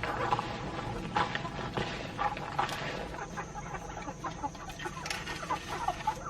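Short, repeated clucking calls of fowl, over a steady background hiss.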